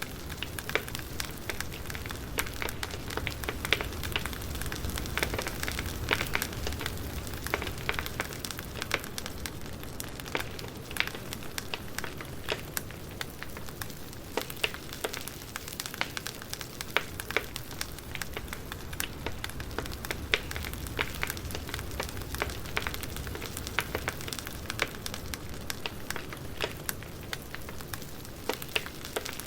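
Wood fire crackling, with many sharp pops and snaps over a steady low hiss and rumble.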